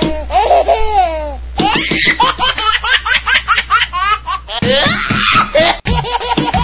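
Young people laughing hard in high-pitched, rapid bursts, in several short clips cut together with abrupt changes between them.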